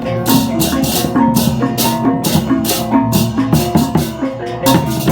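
Balinese gamelan music: ringing metallophone notes moving in steps over quick, repeated cymbal-like clashes.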